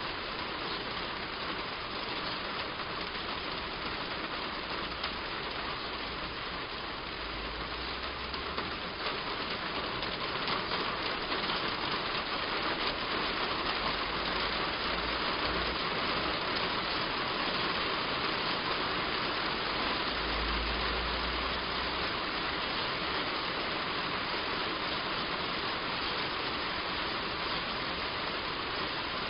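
Heavy rain falling steadily on a roof, an even hiss that swells a little about a third of the way in, with a few brief low rumbles underneath.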